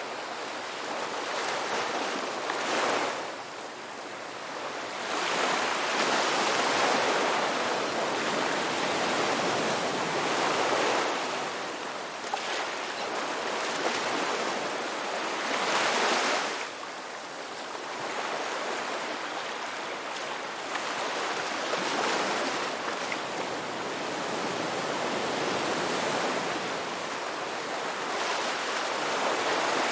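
Ocean waves breaking and washing on a shore, a steady surf with swells that build and fade every few seconds.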